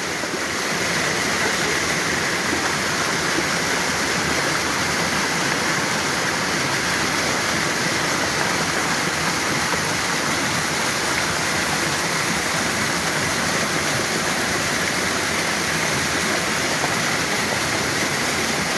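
A creek in flash flood, its swollen floodwater rushing in a steady, unbroken noise.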